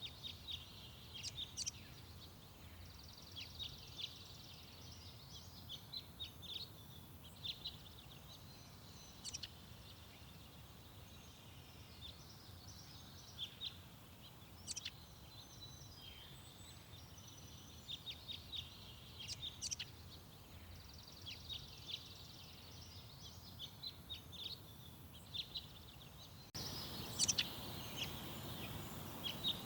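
Small garden birds chirping and twittering in many short, high calls, over a steady low background rumble. The background noise steps up suddenly near the end.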